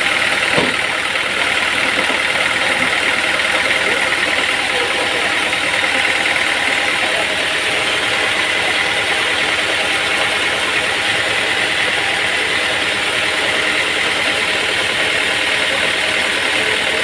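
Sawmill machinery running steadily, with a single knock about half a second in.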